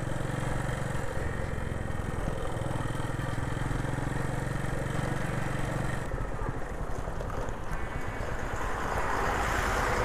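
Motorcycle engine running on the move, with road and wind noise. The low steady engine hum gives way to a rougher sound about six seconds in, and a rushing noise grows louder near the end.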